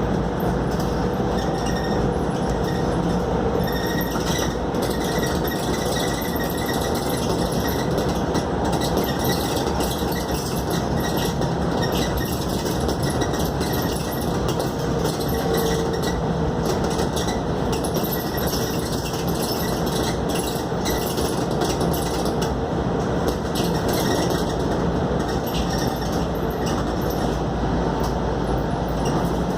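Inside a Scania K280UD double-decker bus on the move: a steady engine and road drone with a faint constant tone, and light rattling and clicking from the body and fittings.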